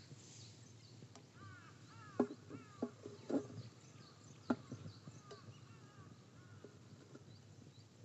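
Wild birds calling in the open: many short high chirps, broken by four short sharp louder calls or knocks between about two and five seconds in.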